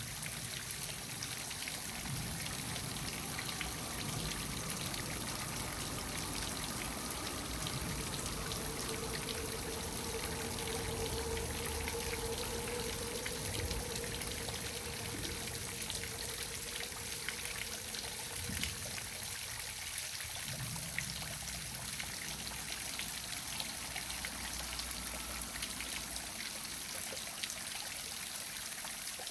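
A small waterfall splashing and trickling steadily.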